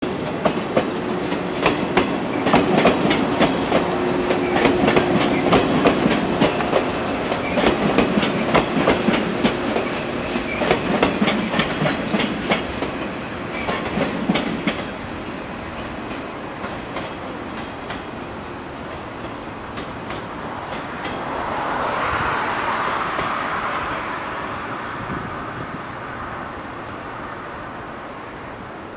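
Yellow electric multiple-unit train passing close by, its wheels clattering rapidly over rail joints and points with a steady hum in the first few seconds. About halfway through the clatter dies away into a fading rumble as the train runs off into the distance, with a brief swell of rushing noise in between.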